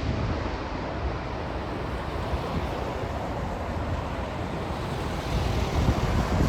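Jet airliner's engine roar, a steady rushing noise with a deep rumble, its higher hiss fading over the first second.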